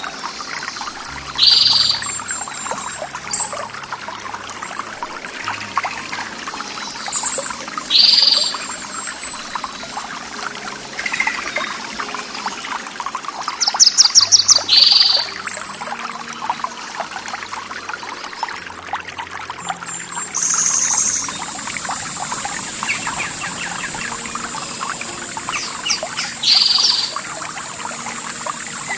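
Running water trickling and pouring steadily, with birds calling every few seconds: short single calls, and a quick run of notes about halfway through. From about two-thirds of the way in, a steady high-pitched tone sounds as well.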